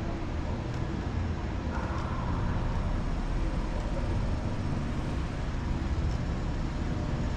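Steady low rumble of background noise in a large exhibition hall, with a few faint light ticks.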